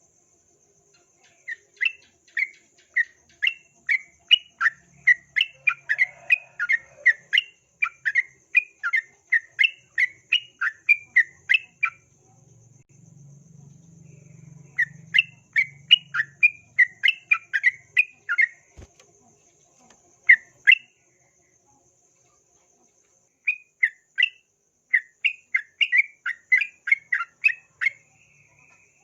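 Yellow-vented bulbul (trucukan) singing long fast runs of short, clear notes, about three a second, broken by pauses about 12 s and 21 s in. A faint steady high insect trill runs underneath.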